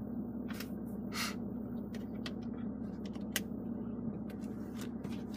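Steady low hum inside a car cabin, with a scattering of light clicks and taps.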